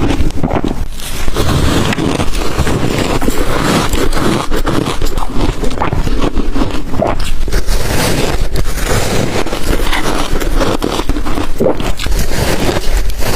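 Close-miked crunching of ice coated in matcha and milk powder being bitten and chewed: a loud, dense run of crackles and snaps with no pause.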